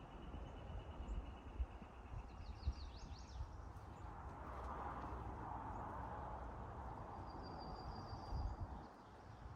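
Quiet outdoor ambience: a few faint bird chirps in the first few seconds and a brief high trill near the end, over a steady low rumble with a few soft knocks.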